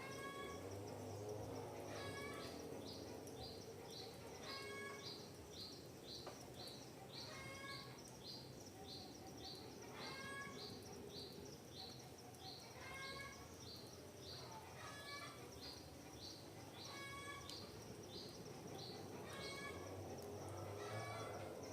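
Wild birds calling: runs of quick, short high chirps about three a second, with a lower call repeated every two to three seconds, over a faint steady background noise.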